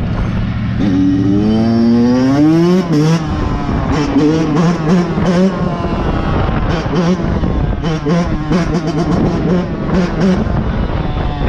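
Motorcycle engine accelerating, its pitch rising for about two seconds and dropping sharply about three seconds in, then revved in a run of short repeated blips.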